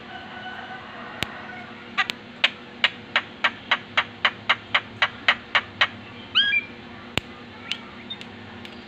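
Javan myna calling: a faint held whistle, then a rapid run of about fifteen harsh, clipped notes at roughly four a second, ending in a short upward-sliding whistle.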